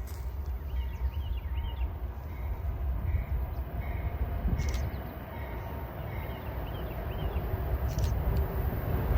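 Norfolk Southern freight train rolling past with a steady low rumble.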